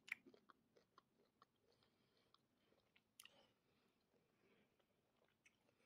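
Near silence with faint chewing of a Skittles sweet: a few soft, scattered mouth clicks, the sharpest right at the start.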